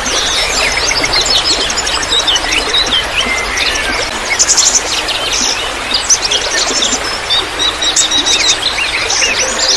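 Many birds chirping and trilling at once, a dense chorus of short calls over a steady background of trickling water.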